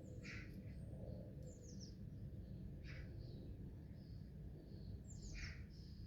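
Birds chirping, short high calls and quick falling notes a few times, over a steady low outdoor rumble.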